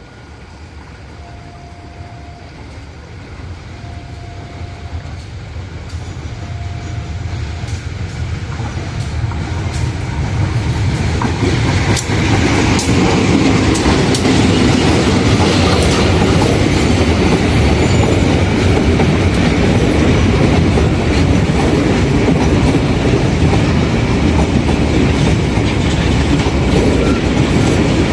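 Ballast train hauled by a CC 204 diesel-electric locomotive approaching, growing louder over about twelve seconds, then running past with wheels clacking over the rail joints. Early on, a short tone repeats about every two and a half seconds under the rising noise.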